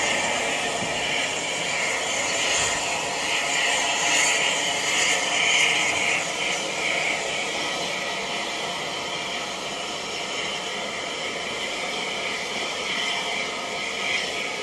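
Steady running noise of a steam-hauled heritage train's passenger carriage moving along the track, wheels on rails heard from on board; a bright hiss is strongest in the first few seconds and eases off after about six seconds.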